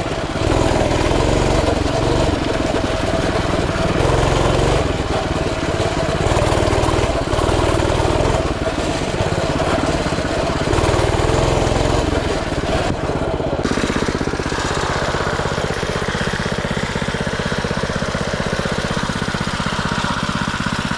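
Coleman CT200U mini bike's small single-cylinder four-stroke engine running, its speed rising and falling with the throttle, then settling into a steady idle about two-thirds of the way through.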